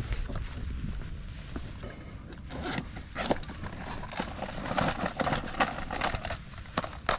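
Small irregular metallic clicks and clinks of fishing tackle being handled, thickest in the middle seconds, over a steady low rumble of wind on the microphone.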